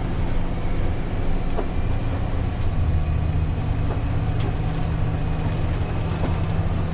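Steady engine and road rumble from inside a vehicle driving along a road.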